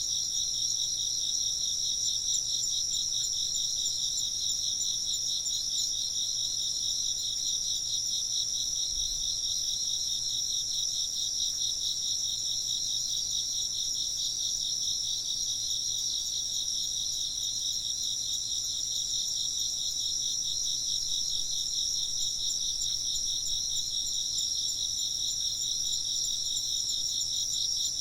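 Chorus of chirping insects: a steady, rapid pulsing trill at two high pitches, running unbroken.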